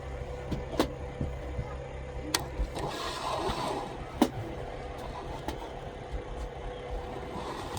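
A steady low machine hum that stops about a third of the way in, under a steady higher tone, with a few sharp clicks and a brief hiss.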